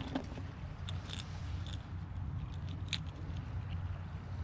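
A few light clicks and ticks from handling fishing tackle while tying a lure onto the line, heard over a steady low rumble.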